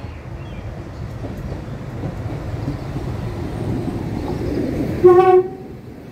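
Northern Ireland Railways diesel multiple unit running into the station, its engine and wheel rumble growing louder as it nears. One short horn blast sounds about five seconds in.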